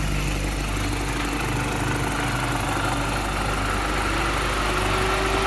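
Supercharged 1.6-litre four-cylinder engine of an R53 Mini Cooper S idling at operating temperature, freshly rebuilt with a new timing chain, while the electric radiator cooling fan runs and adds a steady rushing hiss over the engine.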